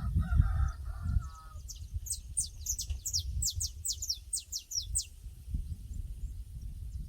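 Birds calling in a pasture over a low rumble. A short, lower-pitched call in the first second and a half gives way to a quick run of high, falling whistled notes, about four a second, lasting some three seconds.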